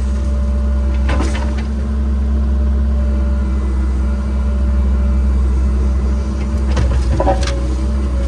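Cat 306 excavator's diesel engine running steadily under work, with a sharp knock about a second in and a few more knocks and a brief squeal near the end.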